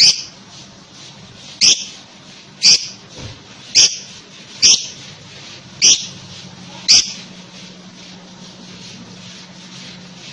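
Lovebird giving short, sharp, high-pitched calls, one about every second, seven in all, then falling silent for the last few seconds. A faint steady hum runs underneath.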